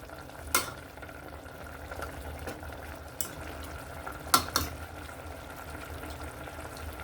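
Chicken simmering in a pot on a gas flame, a steady bubbling, with a few sharp clinks of a utensil against the pot, about half a second in and two close together after four seconds.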